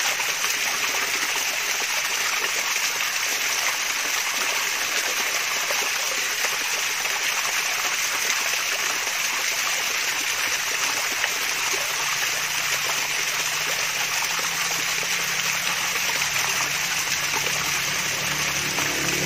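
Water from a mini waterfall splashing and trickling steadily.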